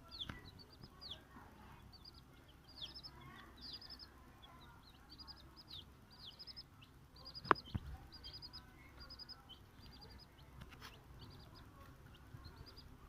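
Chicks peeping: quick runs of short, high cheeps throughout, with a single sharp tap about seven and a half seconds in.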